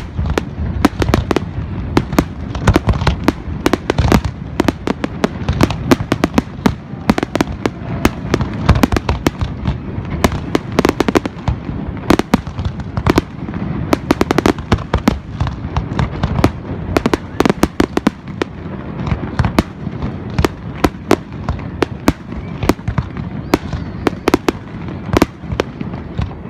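Fireworks display: a rapid, continuous run of bangs and crackles, several a second, over a steady low rumble.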